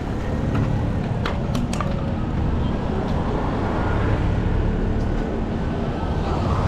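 Street traffic: motor vehicle engines running with a steady low rumble, and a few sharp clicks about a second and a half in.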